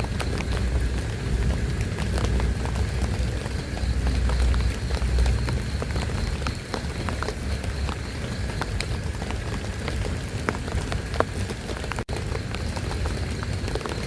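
Heavy rain falling steadily, with many separate drops ticking sharply on a nearby surface and a low rumble underneath. The sound drops out for an instant about twelve seconds in.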